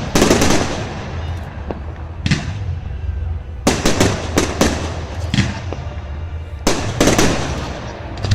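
Fireworks bursting in a series of sharp bangs, each with a short echoing tail. The bangs come singly at first, then in two quick clusters, a little before the middle and again near the end.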